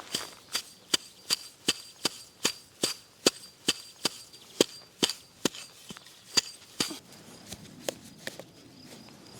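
Steady chopping strokes on wood, about two or three a second, that stop after about seven seconds, leaving a few lighter knocks. A faint steady high insect trill runs behind.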